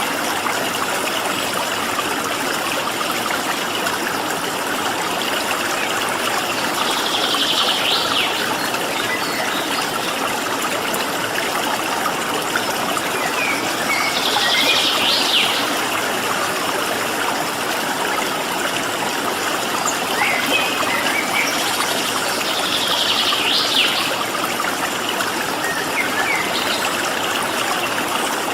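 Stream water flowing steadily. Over it a bird calls three times, several seconds apart, with a few faint short chirps in between.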